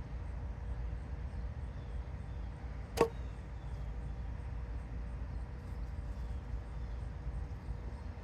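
A single sharp knock about three seconds in, ringing briefly, over a steady low rumble.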